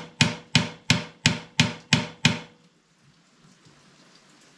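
Hammer blows on a screwdriver held against a stuck metal part, a steady run of about three strikes a second that stops about two and a half seconds in.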